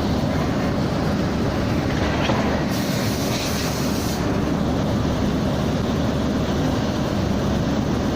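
Summer storm wind blowing hard, a loud steady rush heavy in the low end, with a brighter hiss for about a second and a half from about three seconds in.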